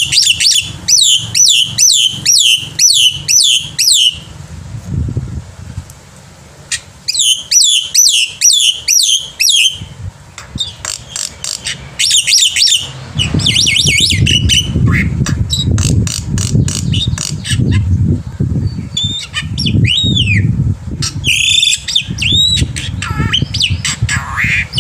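Black-winged myna calling loudly: runs of sharp, downward-sweeping calls at about two a second, broken by short pauses, then varied whistles and harsh notes. From about halfway a low rumbling noise runs underneath.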